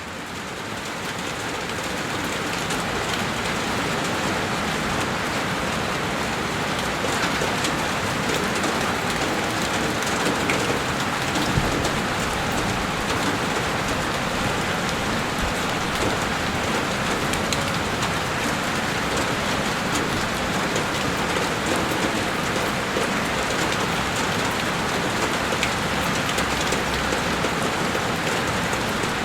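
Heavy rain falling steadily and beating on a window pane, a dense even patter with scattered sharper drop ticks, fading in over the first few seconds.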